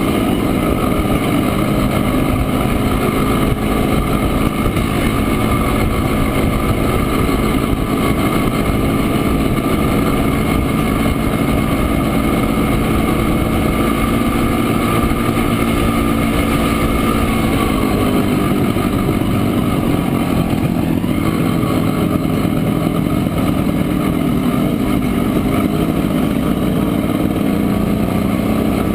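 Montesa Impala Comando 175 cc two-stroke single-cylinder motorcycle engine running steadily under way, its pitch dipping and then picking up again about two-thirds of the way in.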